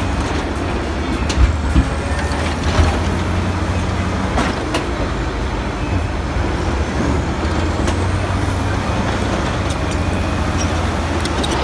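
Bulldozer's diesel engine running steadily under load, with a few sharp metallic clanks in the first five seconds.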